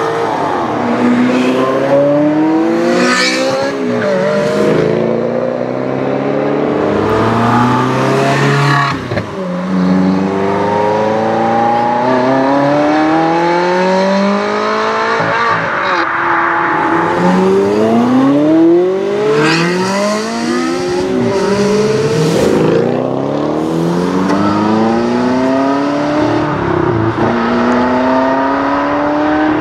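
Ferrari 360 3.6-litre V8 engines accelerating hard away, one car after another. Each pull is a rising engine note that drops back at every upshift and climbs again, with a few sharp high-pitched flares at the top of the revs.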